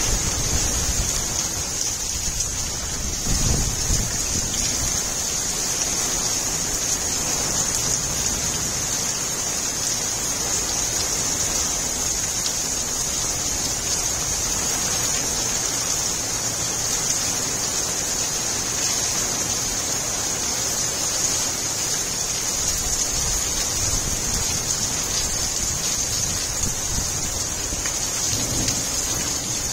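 Heavy monsoon rain pouring steadily, a dense even hiss of the downpour. Low rumbles of thunder come a few seconds in and again near the end.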